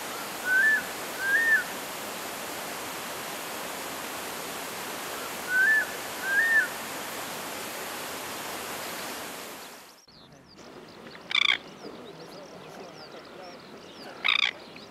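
Steady rushing background like running water, with a bird giving short hooked whistled notes in two pairs. After a sudden cut, quieter outdoor ambience carries two short harsh calls about three seconds apart.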